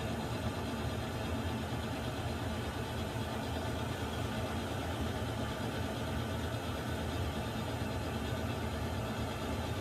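Water heater running: a steady low rumble with an even hiss over it, unchanging throughout.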